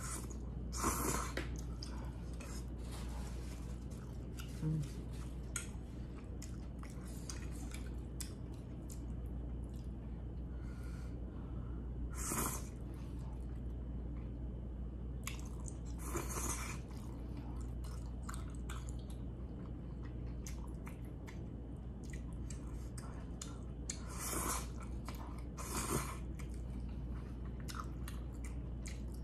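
Close-up chewing of glass noodles and beef, with soft wet mouth clicks throughout. About five short, louder slurps of noodles are spread through it.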